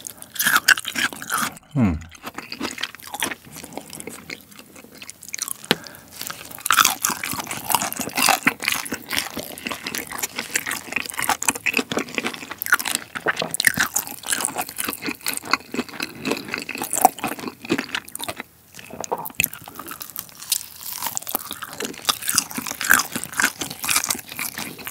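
Close-miked chewing of Goobne Gochu Basasak oven-baked chili-pepper fried chicken: a steady run of small crunches and crackles mixed with wet chewing. The coating is only lightly crisp, not very crunchy.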